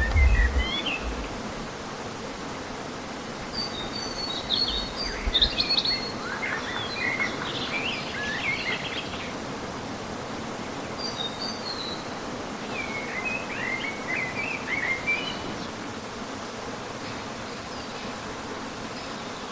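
Small birds singing in several short bursts of quick, chirpy phrases over a steady background hiss, with quiet gaps between the bursts. There are two brief low rumbles, one at the very start and one about five seconds in.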